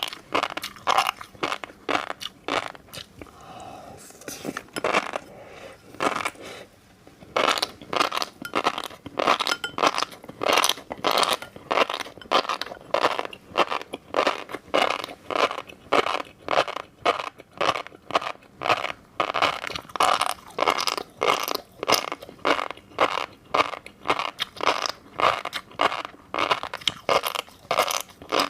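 Mouth chewing fish roe, the beads crunching and popping in a quick steady rhythm of about two to three strokes a second. A softer, sparser stretch comes a few seconds in.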